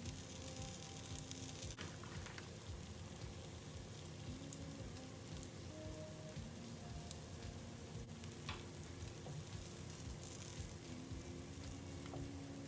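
Wheat-flour flatbread frying in a lightly oiled nonstick pan: a soft, steady sizzle. Faint background music of short held notes plays along, with a few light clicks.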